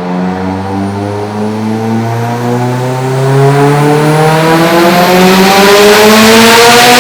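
Turbocharged Mitsubishi Evo X 2.0-litre four-cylinder engine on race gas, running a wide-open-throttle dyno pull. It revs in one steady climb and grows louder about halfway through as boost builds. The pull made 584 horsepower.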